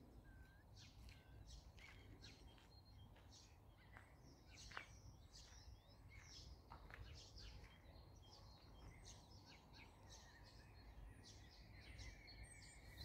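Faint birdsong: several small birds chirping, short calls and whistles scattered throughout, over a low steady background noise.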